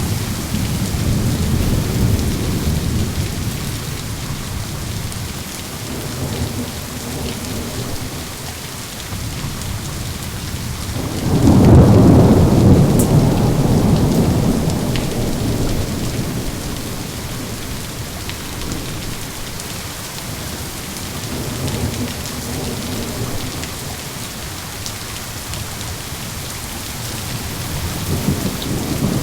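Steady rain with thunder. A rumble fades over the first few seconds, the loudest thunder breaks about eleven seconds in and dies away slowly, fainter rumbles come and go, and another builds near the end.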